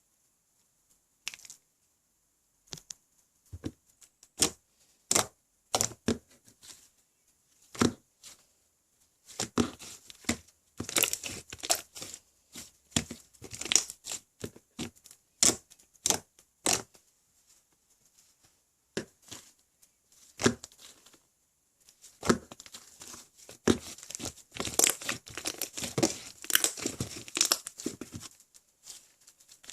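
Slime with clay being mixed in, squished and stretched by hand: separate sticky pops and clicks for the first several seconds, then longer spells of dense crackling and popping.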